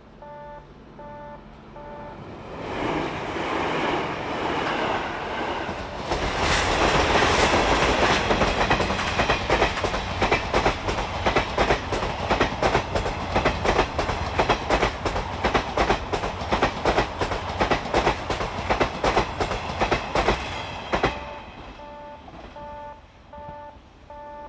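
A passenger train of blue sleeper coaches passes close by, its wheels clacking rhythmically over the rail joints; the sound builds from about two seconds in and the clacks stop suddenly about 21 seconds in as the last car goes by. A level-crossing bell dings in a steady two-tone pattern at the start and again near the end.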